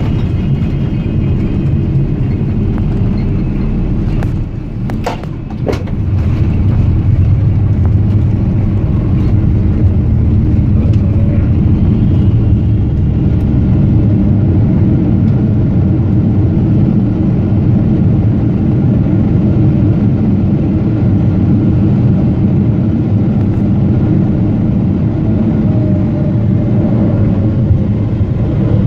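Loud, steady low rumble in the cabin of a Boeing 777-300ER on landing, with a few sharp knocks about five seconds in, after which the rumble grows louder, as on touchdown and the landing roll.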